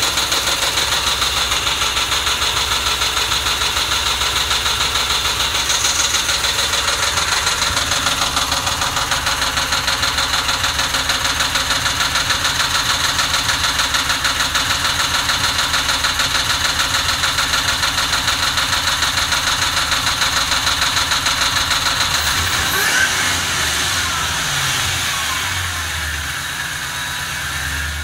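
2006 Ford Mustang GT's 4.6-litre V8 idling roughly after warm-up, with a steady pulsing beat. About three-quarters of the way through the idle note shifts and its low tone steps down as the level drops slightly.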